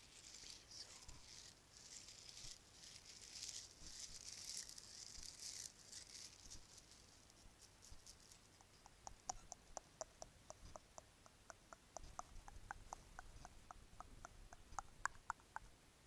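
Soft, faint hissing rustles, then from about halfway a steady run of light, sharp clicks, about four a second.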